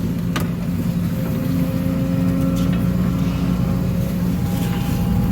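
Case CX210D excavator's diesel engine running steadily at working speed, with a sharp click about half a second in.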